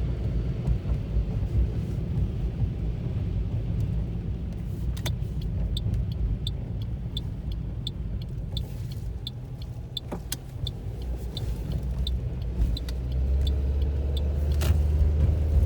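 Road noise inside a moving car: a steady low rumble of engine and tyres. A light, regular ticking about twice a second runs through the middle, and the low rumble swells louder near the end.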